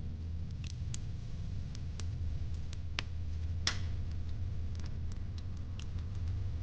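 Fire pit crackling: irregular sharp pops and snaps, the loudest a little past the middle, over a steady low rumble.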